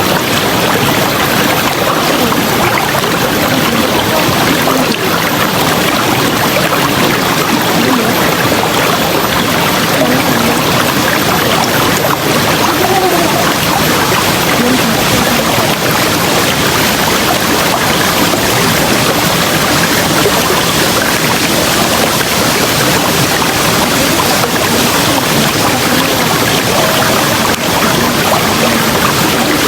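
River water rushing over rocks, a steady unbroken roar of flowing water with faint gurgling in it.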